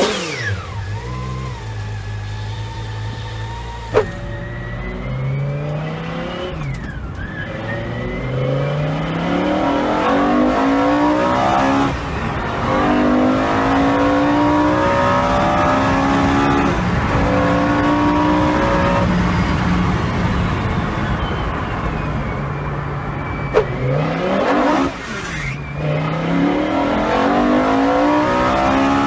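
BMW S85 V10 engine swapped into a Lotus Exige: it runs steadily for a few seconds, then accelerates hard through the gears. The pitch climbs in each gear and falls back at each upshift, heard several times.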